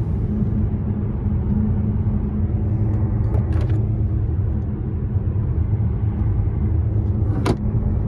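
In-cabin running noise of a Bentley Continental Supersports on the move: a steady low rumble of its twin-turbo W12 engine and road noise. Two brief clicks come about three and a half and seven and a half seconds in.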